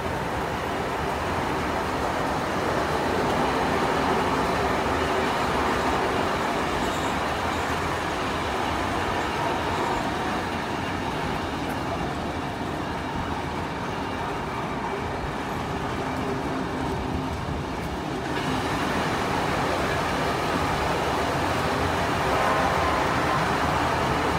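Railway passenger carriage running along the track, heard from an open window: a steady rush of wheel-on-rail and running noise. About three-quarters of the way through it turns brighter and a little louder.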